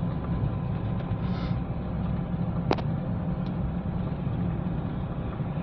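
Mahindra Bolero SLX's three-cylinder diesel engine and road noise heard from inside the cabin while driving at about 35 km/h: a steady low drone, with one sharp click a little before halfway and a faint tick just after.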